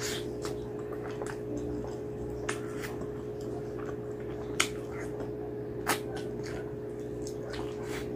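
Close-miked eating sounds: wet chewing and sharp lip smacks from someone eating saucy mutton curry off the bone by hand. Two louder smacks come in the second half, over a steady low hum.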